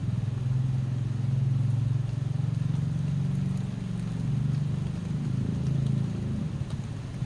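A motor vehicle's low engine hum, close and steady with slight swells, over a faint hiss of rain.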